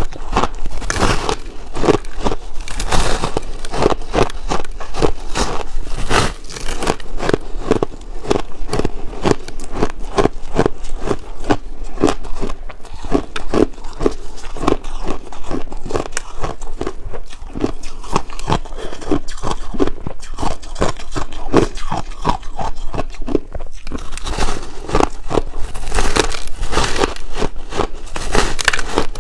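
Purple ice chunks being bitten and chewed, a continuous run of loud, rapid crunches and cracks.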